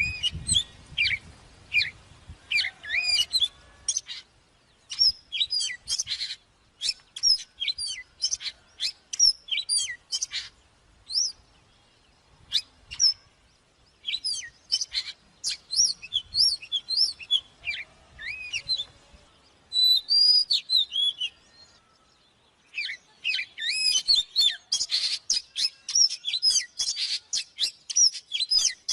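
Oriental magpie-robin singing: runs of clear, quickly sliding whistled notes, broken by a couple of short pauses and densest near the end.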